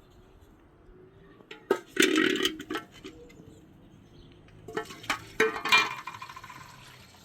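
A few clinks and knocks, like hard objects or dishes being handled, in two clusters about two and five seconds in.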